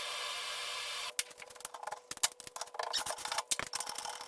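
A steady hiss that cuts off about a second in, then a run of quick, irregular metallic clicks and taps from hand tools working on the rusty rear-beam and differential bolts.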